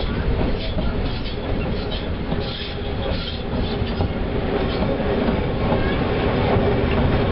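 Train in motion behind a Whitcomb locomotive: a steady engine drone under continuous wheel rumble and clatter on the rails, with faint brief high squeals from the wheels around the middle.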